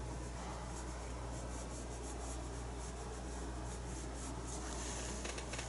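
A paintbrush stroking acrylic paint onto the painting surface: many light, repeated scratchy brush strokes over a steady low hum.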